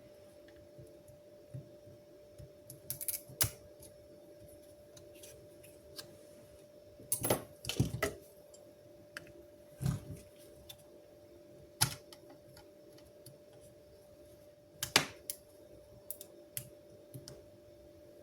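Scattered clicks, taps and light knocks of small tools and parts being handled on a workbench, over a faint steady hum. There is a busier patch of clatter about seven seconds in, and a single sharp knock about fifteen seconds in.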